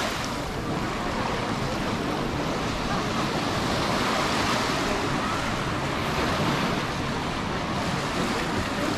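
Sea surf washing on the shore, a steady rushing noise, with wind buffeting the microphone.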